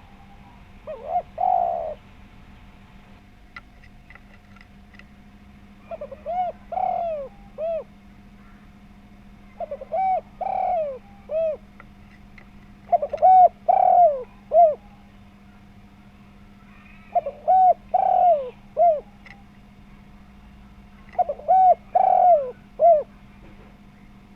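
Spotted dove (tekukur) cooing: six phrases of several full, round-toned coos each, coming about every three to four seconds, over a faint steady hum.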